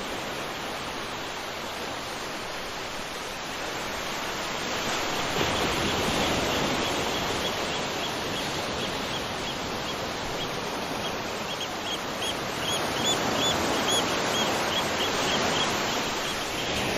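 Waterfall rushing steadily, a dense even roar of falling water that grows louder about five seconds in. Over it a bird calls in a rapid series of short, high chirps, mostly in the second half.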